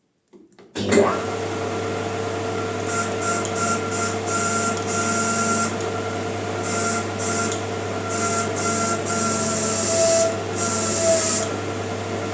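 Near silence, then about a second in a Maximat metal lathe starts and runs steadily, spinning a bicycle disc brake rotor with the brake pressed against it. A steady hum and whine run throughout, with a hissing scrape from the brake rubbing on the disc that comes and goes, the disc heating until it smokes.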